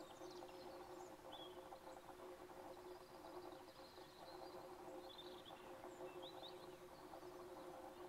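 Near silence: a few faint, short bird chirps now and then over a steady low hum.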